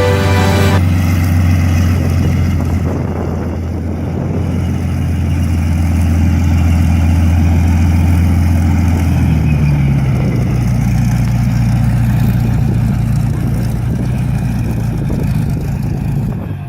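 Piston aircraft engine running steadily with a low drone, its pitch stepping up about ten seconds in.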